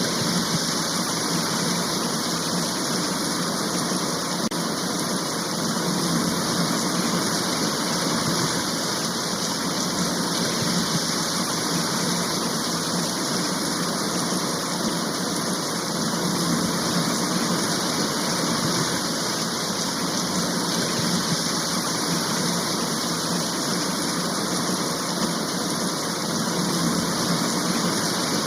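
Heavy rain shower falling in a steady, unbroken hiss.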